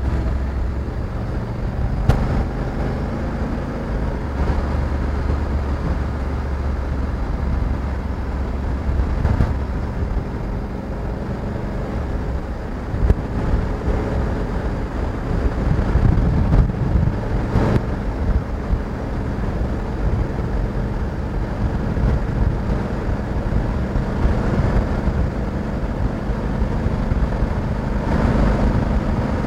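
Honda Africa Twin 1100 DCT motorcycle's parallel-twin engine running steadily under way, heard from on board, with a few brief knocks.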